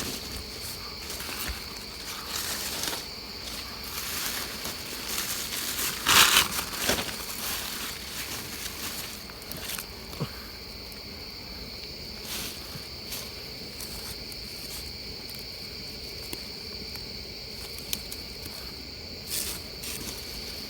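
Insects chirring in a steady high drone, with scattered knocks and rustles of handling work over it; the loudest is a short noisy burst about six seconds in.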